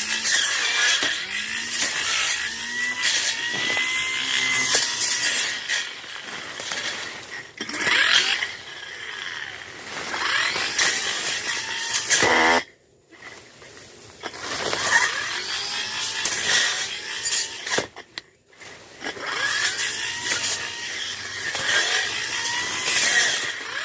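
Tanzu brush cutter's small petrol engine revving up and down as the line or blade cuts through brush and grass. The revs drop off briefly twice, about halfway through and again a few seconds later, before picking up again.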